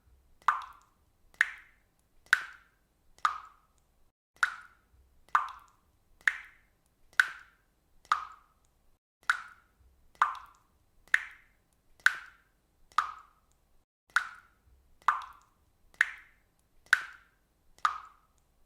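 Water dripping at a steady, even pace, a little more than one drop a second, each drop a short, sharp sound with a brief ring.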